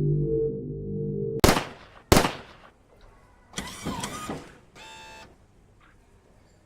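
Low electronic music that cuts off about a second and a half in, followed by two sharp impact sound effects and then a short string of electronic sound effects: a noisy sweep with a bending tone, then a brief buzzy beep.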